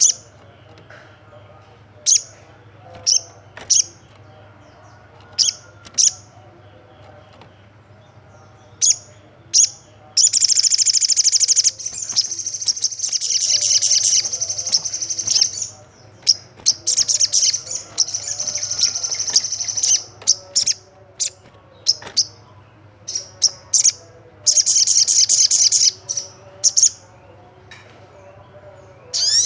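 Olive-backed sunbird calling: sharp high chirps every second or two, then from about ten seconds in long, fast, high trills lasting two to four seconds each, with more chirps between them.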